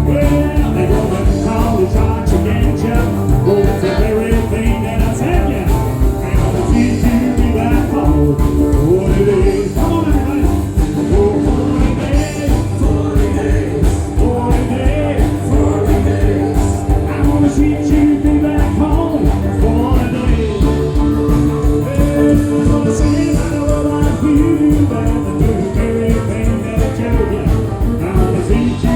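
Live rock and roll band playing at a steady beat, with long held notes over the rhythm section.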